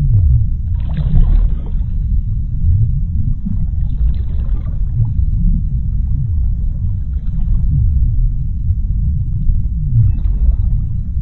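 Underwater sea ambience: a deep, steady rumble with short low swoops in pitch running through it. Brief hissing surges come and go about a second in, around four seconds in, and again near the end.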